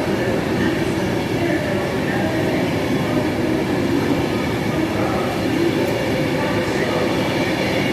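A train running at the platform: a loud, steady drone that holds even and unbroken.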